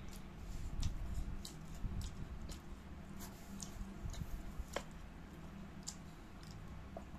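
Someone chewing close to the microphone: scattered small wet clicks and smacks at an irregular pace, over a low steady hum.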